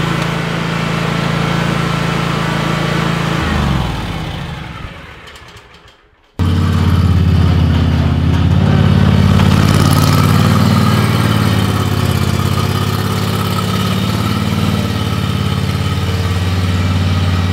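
A motor vehicle engine running steadily, then slowing and dying away about four seconds in. After a sudden cut, another engine runs steadily.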